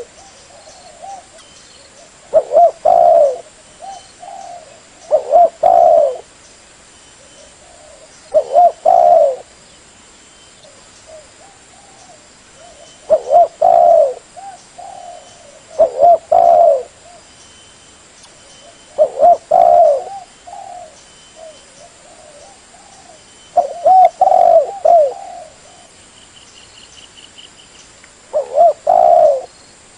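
Spotted dove cooing: short phrases of several low coos, repeated every few seconds, with softer coos in between.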